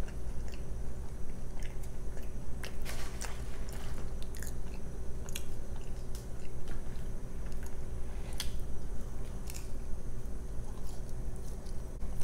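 A person chewing food close to the microphone, with soft mouth sounds and scattered short crisp clicks, over a steady low hum.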